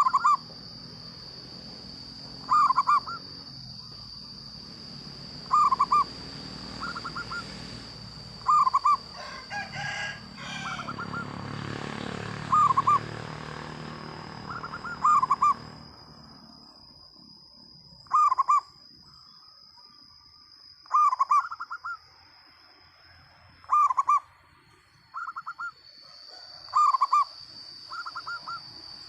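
Zebra doves (perkutut) cooing. Every few seconds one bird gives a loud coo, and it is answered each time by a softer, quick stuttering coo, as the birds call back and forth. A steady high whine runs underneath.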